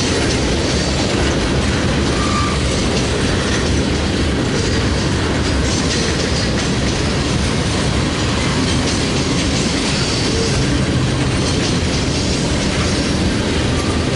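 Freight train cars rolling steadily past, a continuous rumble with the clickety-clack of steel wheels over the rail joints.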